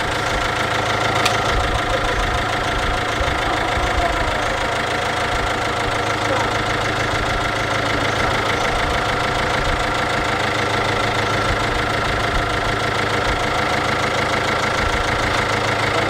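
MINI R56's 1.6 HDi DV6 diesel engine running steadily at idle.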